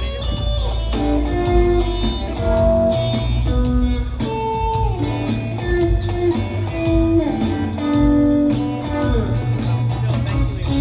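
Live guitar, bass and drums trio playing an instrumental passage between sung verses, with guitar notes over a steady bass and drum groove, recorded on a phone in the audience.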